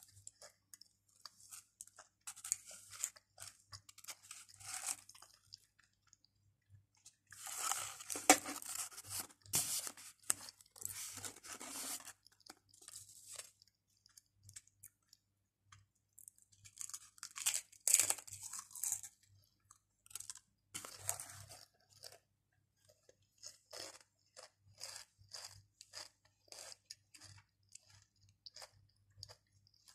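Pringles potato crisps being bitten and crunched close to the microphone, in several loud runs of crunching with quieter chewing between them. Toward the end there are only scattered soft clicks.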